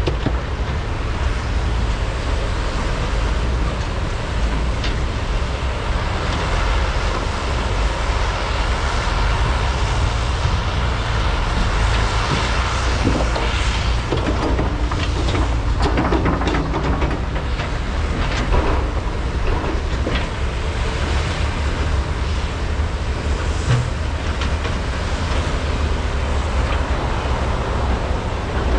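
Large hydraulic excavators' diesel engines running steadily under load while loading trucks, with bouts of clattering and scraping around the middle as loaded material is handled.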